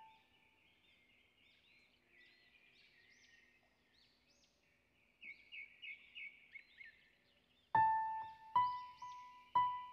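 Birds chirping and twittering, with a quick run of brighter chirps a little past the middle. Slow, single piano notes come in near the end.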